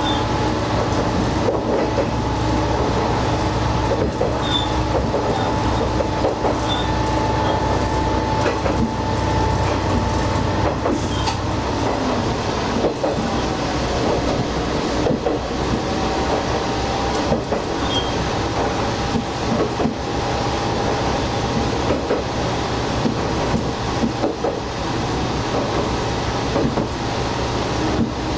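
Diesel railcar running steadily along a single track, heard from the cab: a low engine hum and a steady whine, with the wheels knocking irregularly over rail joints.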